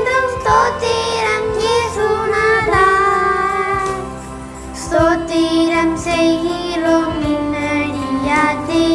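A song: a singing voice over instrumental backing, dipping briefly about halfway through before the voice comes back in.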